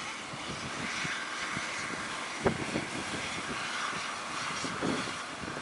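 Strong wind blowing in a steady rush, with gusts thudding on the microphone, once about two and a half seconds in and again near the end.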